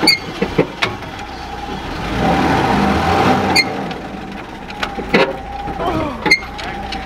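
Willys Jeep driving, its engine running and swelling and easing in loudness, with a steady high whine and scattered knocks and rattles. The engine is down on power, which the owners put down to timing.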